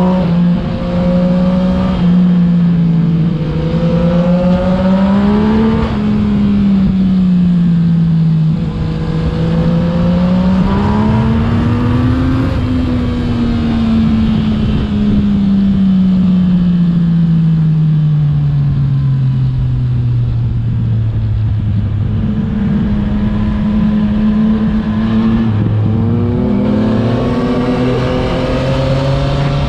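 Yamaha MT-09 / FZ-09 three-cylinder engine through an aftermarket Akrapovic exhaust, under way. It pulls up through the revs with drops at gear changes, winds down slowly over several seconds in the middle, holds steady, then revs up again near the end, over constant wind rush.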